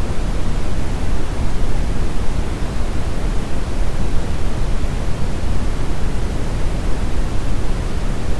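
Steady brown noise: a continuous, even rumbling hiss weighted toward the low end, with no changes or events.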